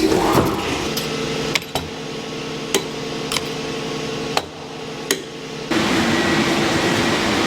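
Filter-making production machinery running with a steady hum and sharp clicks or knocks about once a second. A little past halfway it shifts to a louder, hissing run.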